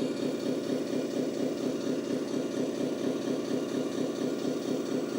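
Simulated diesel engine idling from an RC truck's electronic sound system, a steady, evenly pulsing low rumble through a small speaker.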